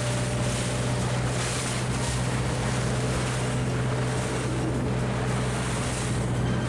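A large yacht underway: its engine runs with a steady low hum, over the wash of water along the hull and wind buffeting the microphone in gusts.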